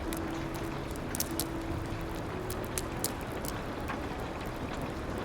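Steady hiss of rain with the sharp pops and crackles of a wood fire scattered through it, and a faint, soft low piano tone held for the first few seconds.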